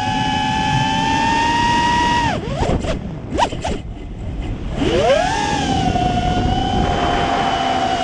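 Brushless motors of a 5-inch TC-R220 racing quadcopter whining steadily in flight. About two seconds in the throttle is chopped and the pitch drops, a few short quick blips follow, and near five seconds the motors spool back up to a steady whine.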